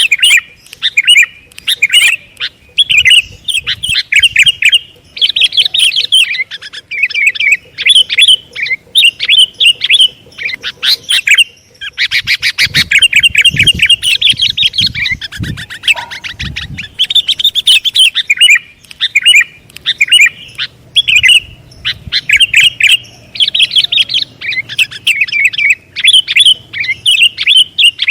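Sooty-headed bulbul (kutilang) calling over and over in short, bubbly chirping phrases with brief pauses between them. About halfway through comes a longer, rapid trill, with a few low thumps under it.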